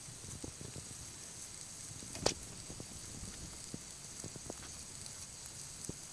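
Homemade Coke-can methylated-spirit stove burning with a faint, steady hiss and small ticks, and one sharp metal click about two seconds in.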